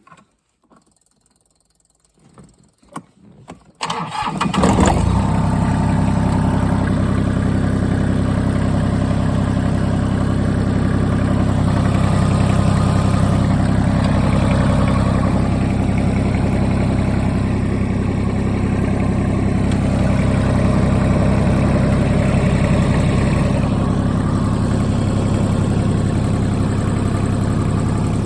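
JCB 327 HST compact tractor's diesel engine, started about four seconds in after a few faint clicks, then idling steadily.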